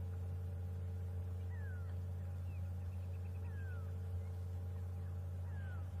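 A bird calls over a steady low hum, giving a short falling whistle three times about two seconds apart, with a quick trill of short high notes between the first two.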